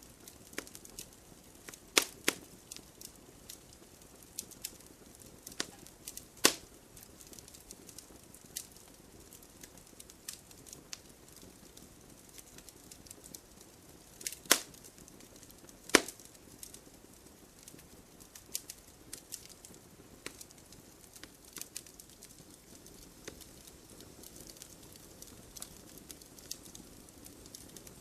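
Wood campfire burning with irregular crackles and sharp pops over a soft hiss of flame; a few pops stand out louder, two close together about two seconds in and two more about fourteen and sixteen seconds in.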